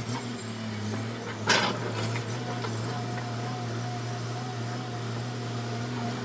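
Komatsu excavator running steadily, a constant low engine drone with a faint steady whine above it, and one sharp knock about a second and a half in.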